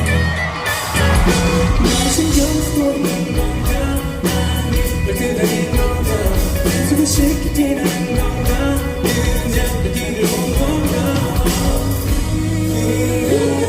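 A live band playing an upbeat pop song, with a singer's voice carrying the melody over it.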